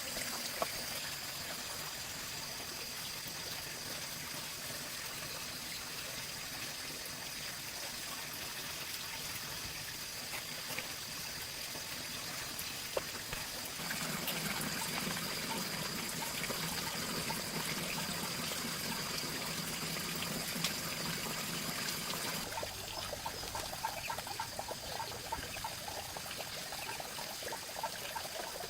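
Water trickling and pouring steadily. The sound changes character suddenly about 14 seconds in and again about 22 seconds in.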